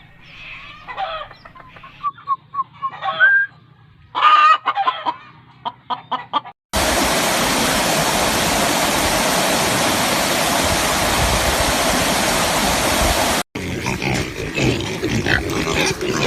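Chickens clucking and calling in short, separate calls. About seven seconds in, a loud steady rushing noise starts abruptly and cuts off sharply after about seven seconds, followed by a jumble of clicks and calls.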